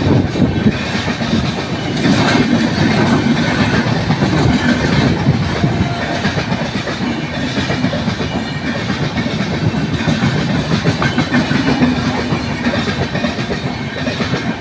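Indian Railways express train of LHB coaches passing close by: a steady rumble of steel wheels on the rails, with the wheels clattering over the rail joints.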